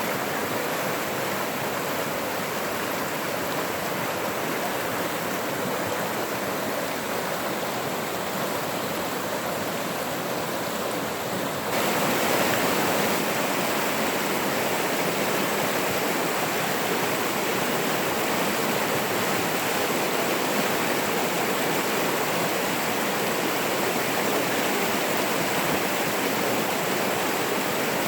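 Running water of a mountain stream rushing steadily. About twelve seconds in it turns abruptly louder and fuller and stays that way.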